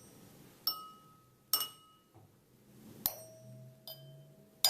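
Wine glasses struck with a fork, about five sharp clinks, each followed by a clear ringing tone. The glasses are tapped at different heights on the glass, so the pitch of the ring changes from tap to tap; the later taps ring lower and longer.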